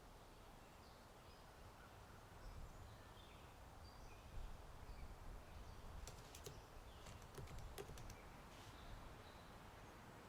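Faint typing on a computer keyboard, a quick run of key clicks from about six to eight seconds in. Under it are distant birds chirping and a low wind rumble.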